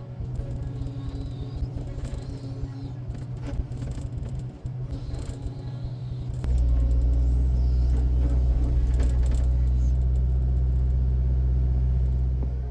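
Heavy diesel machinery running at a steady low rumble, which grows louder and deeper about six seconds in as the engine is put under more load.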